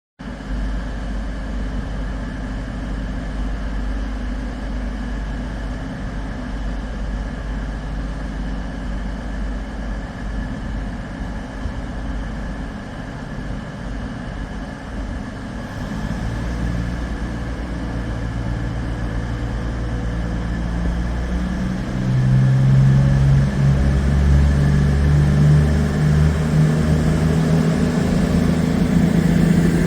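Diesel train engine running with a steady low rumble, growing louder about two-thirds of the way through.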